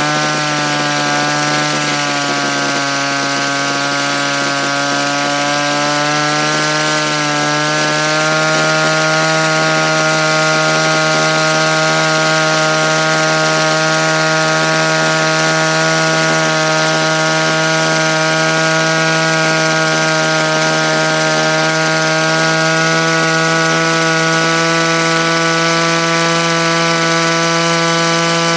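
Small two-stroke petrol engine of a Raptor 50 RC helicopter converted to gasoline, running at a steady high speed. Its pitch rises a little about seven seconds in, then holds.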